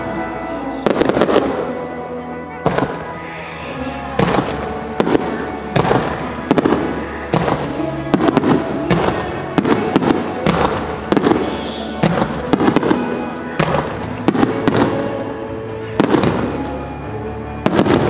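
Aerial fireworks bursting in quick succession, with many sharp bangs every half second to a second, over music synchronised to the display.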